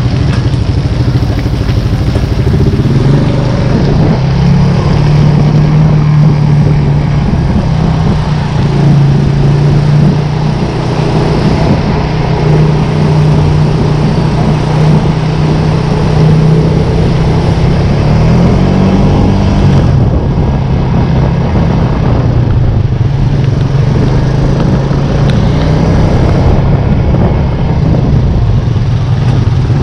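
A motor vehicle's engine running steadily, its pitch stepping up and down a few times, the biggest shift about two-thirds of the way through.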